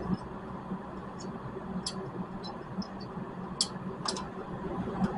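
Light, sharp metallic clicks and ticks, about eight of them at uneven intervals, as brake-pad parts and clips are handled and fitted into a car's front brake caliper bracket, over a steady low hum.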